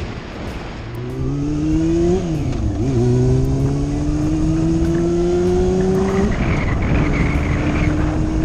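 Honda motorcycle engine pulling hard, its pitch climbing. It changes up a gear about two seconds in, climbs again, then the throttle is eased off about six seconds in and it settles at a lower, steady note. Steady wind rush runs underneath.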